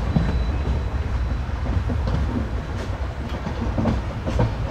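Indian Railways sleeper-class coach heard from inside while the train runs: a steady low rumble, with a few sharp clicks near the end.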